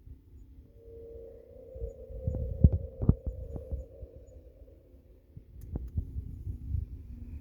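Irregular low muffled thumps and rumble, with a few sharper knocks about two to three seconds in, and a steady hum for the first few seconds.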